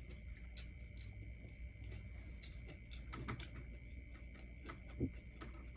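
Faint, irregular clicks of someone eating close to the microphone, with a soft low thump about five seconds in, over a faint steady high whine.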